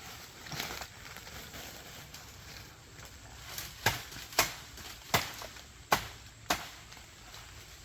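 Five sharp knocks in the second half, roughly two-thirds of a second apart: a hand tool striking, over faint rustling.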